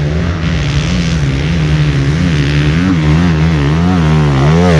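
Trail motorcycle engine running under way, its pitch swinging up and down two or three times a second as the throttle is worked. The swings grow larger and louder toward the end.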